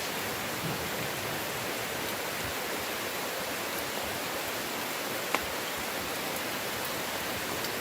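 Heavy rain falling steadily as an even, unbroken hiss, with one sharp tick of a drop striking something a little over five seconds in.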